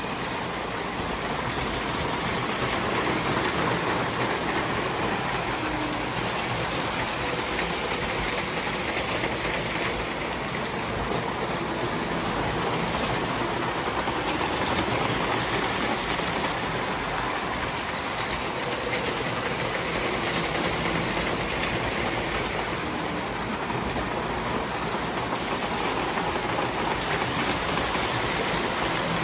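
Several model trains running at once around a layout: a steady, continuous sound of wheels on track and train motors.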